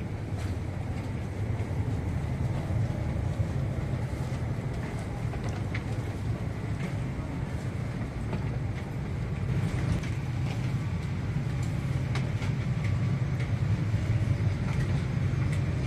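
Steady low rumble of a vehicle interior, with a faint high hum and a few light clicks.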